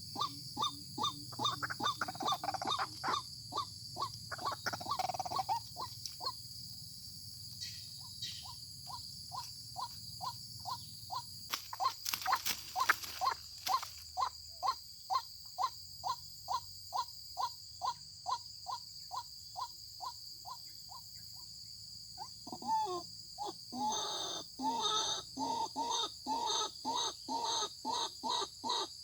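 White-breasted waterhen giving its repeated call, a long even series of short calls at about two to three a second, fainter in the middle and louder again near the end. A steady high-pitched whine runs behind it.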